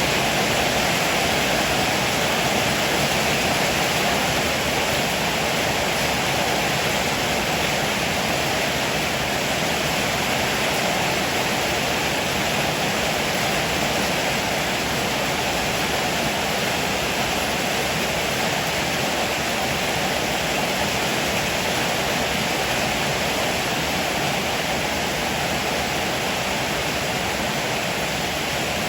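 Heavy rain pouring steadily as an even rushing hiss.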